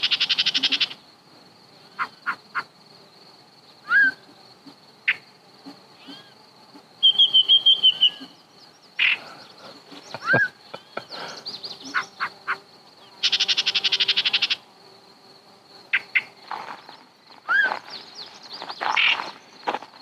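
Yellow-breasted chat singing from cover: its jumbled song of long bursts of fast rattling notes at the start and again about 13 seconds in, a run of chirps about 7 seconds in, and scattered short whistles and clucks between quiet gaps.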